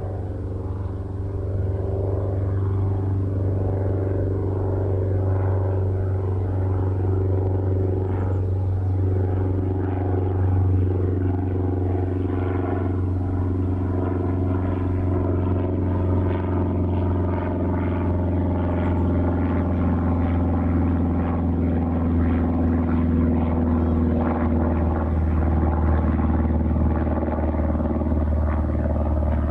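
A steady engine drone, with a pitch that slowly falls over the half-minute.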